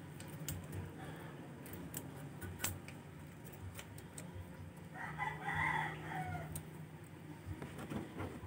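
A bird's call, about a second long, about five seconds in, ending in a falling tail; it is the loudest sound. A few sharp clicks come from tools on the scooter engine's rocker arms and valve adjusters.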